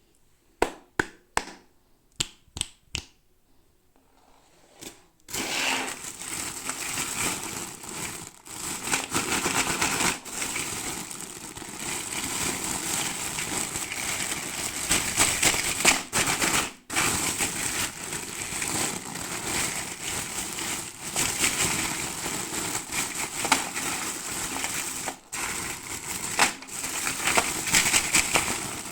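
Toy packaging crinkling and crackling as it is handled and opened during an unboxing. A run of sharp clicks and taps in the first three seconds gives way, about five seconds in, to continuous dense crinkling.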